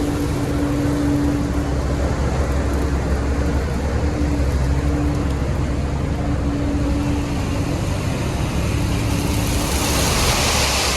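Heavy diesel construction machinery running steadily, with a low drone and a humming tone that drops out and comes back several times. A rushing hiss swells near the end.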